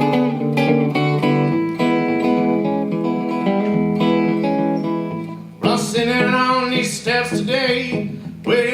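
A solo guitar playing a blues, with held, ringing notes. About five and a half seconds in, a voice comes in singing over it with bending, wavering pitch.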